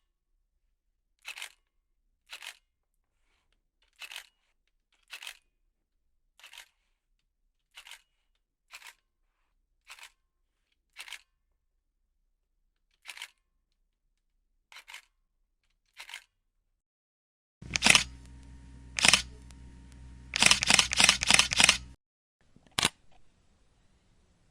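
Camera shutter releases: a series of single, fairly quiet clicks a second or so apart, several of them double clicks. From about two-thirds of the way in, a louder camera with a steady low hum behind it clicks twice, then fires a rapid burst of about six shots in continuous-shooting mode, then clicks once more.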